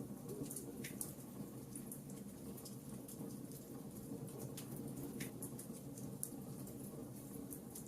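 Wood fire crackling in a fireplace: irregular small pops and snaps scattered over a low, steady rumble.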